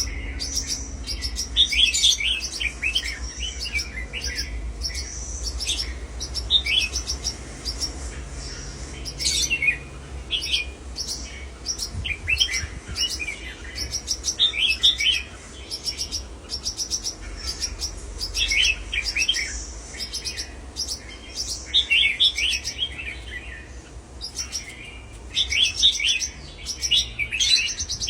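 Small cage birds chirping and calling in rapid, overlapping clusters, over a low steady hum.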